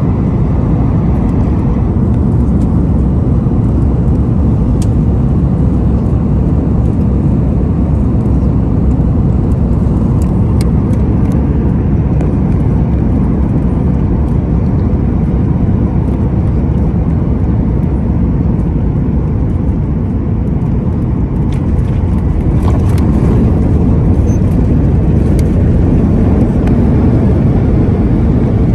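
Boeing 737 MAX 8 jet airliner noise: a loud, steady low rumble with a few faint clicks and rattles about 22 to 25 seconds in.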